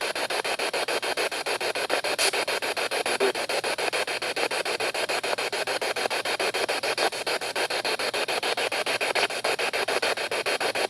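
SB7 spirit box sweeping through radio frequencies: radio static chopped into rapid, even pulses many times a second.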